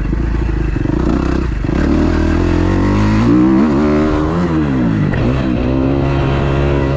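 2012 Kawasaki KX250F's 250 cc four-stroke single-cylinder engine being ridden hard, revving up and down as the throttle is worked. Its pitch is fairly steady at first, then rises and falls several times over the last few seconds.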